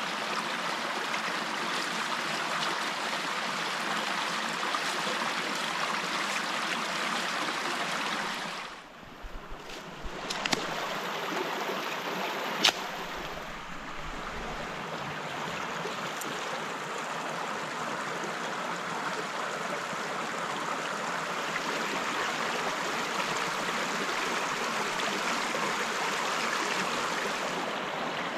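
Steady rushing water, an even hiss of flowing water, that briefly drops away about eight seconds in, then resumes with a few sharp clicks or snaps over the next few seconds.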